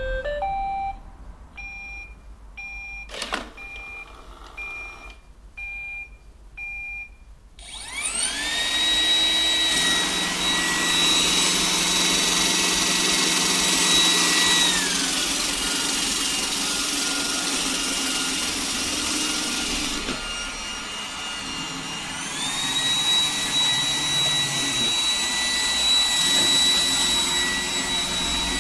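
Robot vacuum cleaner: a few short quiet beeps, then about eight seconds in its suction fan spins up into a steady high whine. The whine drops to a lower speed about halfway through and climbs back up again about three quarters of the way in.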